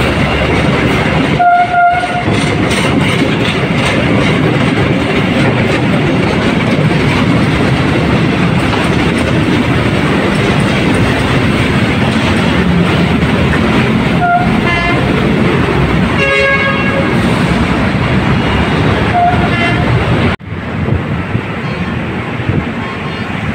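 Rail maintenance train of track maintenance cars hauling flatcars loaded with concrete sleepers, rolling past close by with a loud, steady rumble of wheels on rail. Its horn gives short toots about two seconds in and three more in the last third. Near the end the rumble cuts off suddenly to a much quieter outdoor background.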